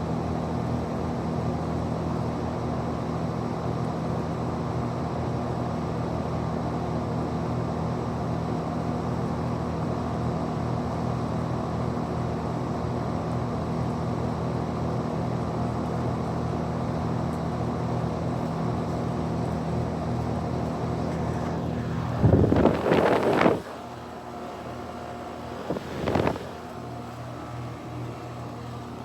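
Carrier Comfort Series heat pump running through its startup, a steady hum with several even tones. About 22 seconds in there is a loud whoosh lasting a second or so, after which the unit runs quieter. A second short whoosh follows a few seconds later.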